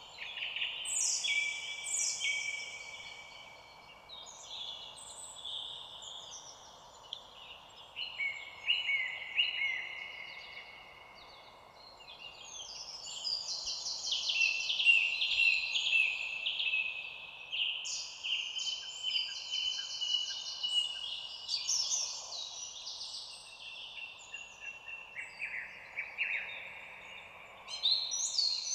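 A chorus of many small songbirds singing at once, overlapping songs made of rapidly repeated notes and trills, over a faint steady background noise. The chorus is densest and loudest around the middle.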